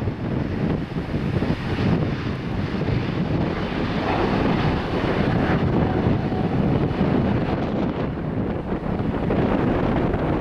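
Wind buffeting the microphone in a steady low rumble, over the noise of a jet airliner's engines.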